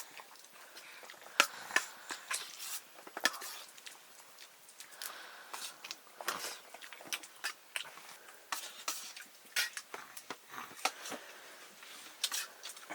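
Quiet, irregular light clicks and knocks, a few every second, of small things being handled in a room.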